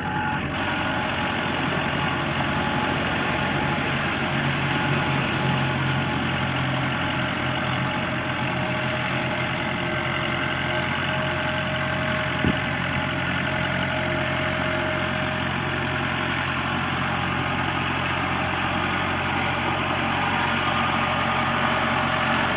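1990 Case 585 tractor's 3.4-litre four-cylinder diesel engine running at a steady speed as the tractor is driven, with one short click about halfway through.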